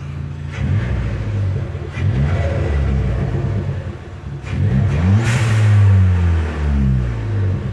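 2017 Ford Fiesta ST's turbocharged 1.6-litre four-cylinder revved through a DNA Motoring 3-inch cat-back exhaust, with a deep exhaust note. There are a few short throttle blips, then a longer rev about halfway through whose pitch rises and falls back toward idle.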